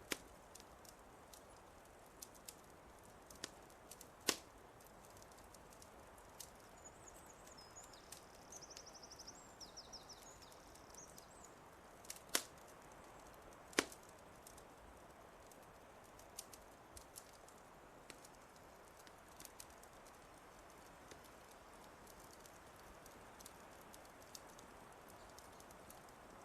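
Wood fire crackling in a fireplace: sparse sharp pops and ticks, the loudest about 4, 12 and 14 seconds in, over a soft steady hiss. A small bird sings faintly once, a short high phrase ending in a quick trill, between about 7 and 11 seconds in.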